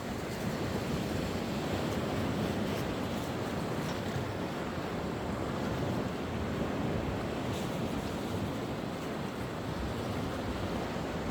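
Sea waves washing onto the shore in a steady, continuous rush, with some wind buffeting the microphone.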